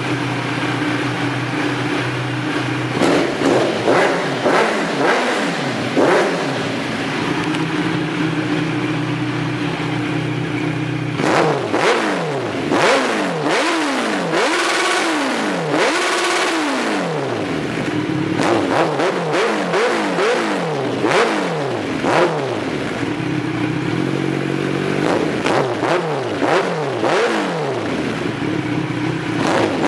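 Kawasaki Z1000's inline-four engine through a Jeskap full 4-2-1 aftermarket exhaust with its dB killer fitted. It idles, is blipped a few times about three seconds in, then is revved up and let fall again and again through the second half.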